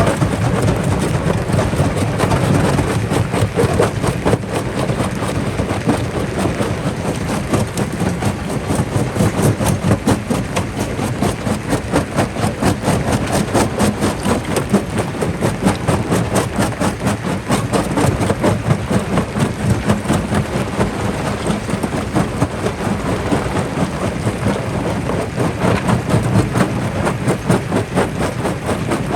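Jaw rock crusher running under load, rock cracking and grinding between the jaws in a dense, continuous stream of knocks over a low machine hum.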